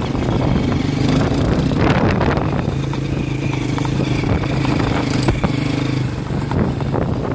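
Honda CRF230 dirt bike's single-cylinder four-stroke engine running steadily while being ridden.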